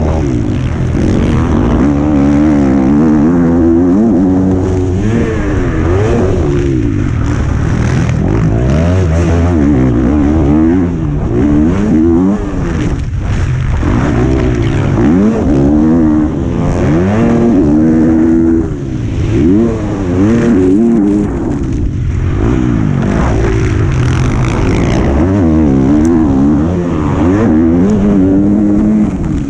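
Motocross bike engine heard from onboard the racing bike, revving hard and repeatedly rising and falling in pitch every second or two as the throttle opens and closes around the track.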